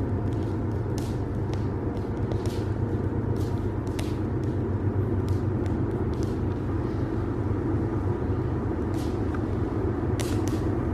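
Campfire crackling with irregular sharp pops over a steady low rumble.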